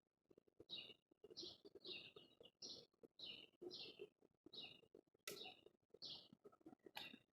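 Small birds chirping in short, faint notes about twice a second, with a couple of sharp clicks in the second half.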